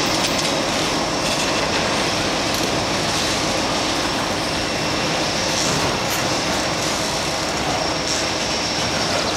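A long mixed freight train rolling past: steady rumble and rattle of steel wheels on rail, with a thin, high, steady squeal above it.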